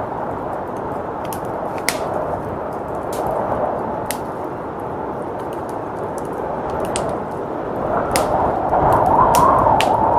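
Wood fire crackling with scattered sharp pops, over a steady rush of blizzard wind that swells louder near the end.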